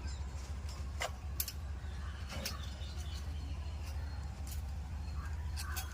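Scattered sharp metal clicks and taps of hand tools working on a scooter's engine head, about five in all, over a steady low hum.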